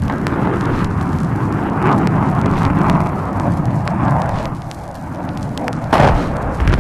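Heavy explosive blasts on an early-1960s military sound recording: a sudden blast sets off a long, low rumble, and a second sharp blast comes about six seconds in. Vinyl record crackle and pops sound throughout.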